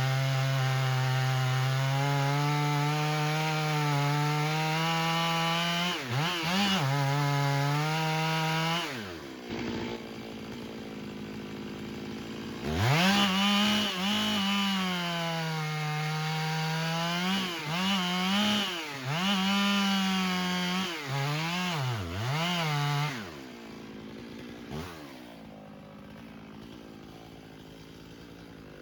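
Chainsaw engine running at high revs, then dropping to idle about nine seconds in. It is revved up again a few seconds later and throttled down and up several times before falling back to idle near the end.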